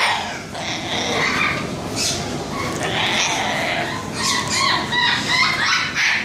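Parrots fighting, screeching and squawking harshly at each other in a dense, almost continuous string of calls, with a run of higher pitched squeals about four to five seconds in.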